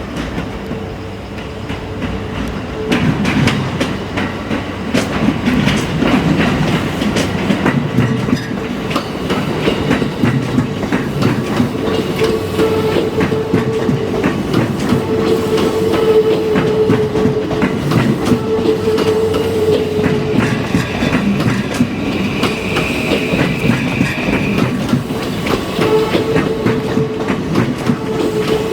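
Yokosuka Line electric train moving slowly over the level crossing, its wheels clacking over the rail joints, with a steady hum. A high tone sounds for a few seconds about three-quarters of the way through.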